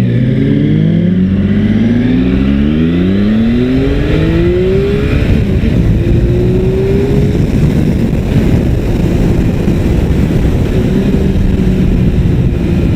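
Triumph Sprint ST three-cylinder motorcycle engine under hard acceleration, its note climbing steeply over the first five seconds, then rising again after a gear change. It then holds a steady high pitch at speed under heavy wind rush.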